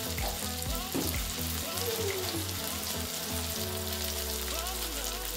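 Oil sizzling steadily as tomatoes, garlic, chillies and spices fry in a metal kadai, with background music playing.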